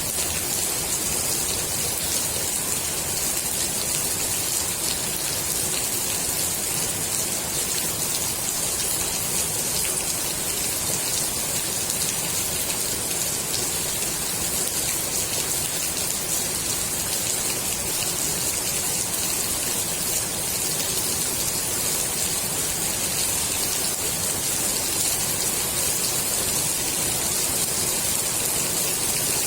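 Steady rain falling on the water of a swimming pool: an even, unbroken hiss that holds its level throughout.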